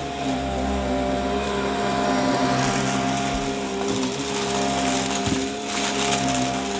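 Vacuum cleaner running with a steady motor hum while it sucks up crunchy debris; the hiss and crackle of the pickup grow louder a couple of seconds in.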